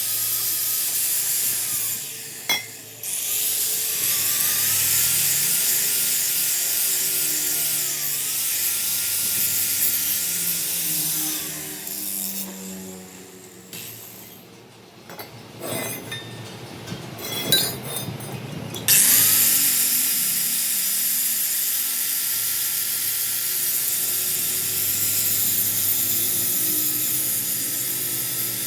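A power tool running with a steady hiss and a motor tone that dips briefly a few times, as if under load. It stops for several seconds in the middle, with a few knocks, then runs again.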